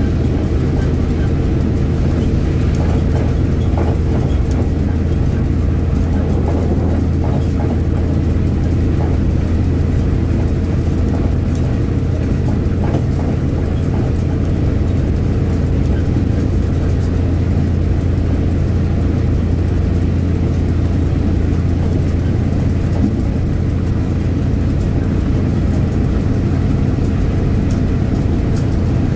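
Diesel train running along the track, heard from the front of the train: a steady low engine drone with the rumble of the wheels on the rails, unchanging throughout.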